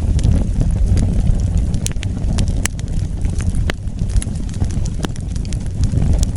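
Wood fire burning: a steady low rumble with irregular sharp crackles and pops, about one or two a second.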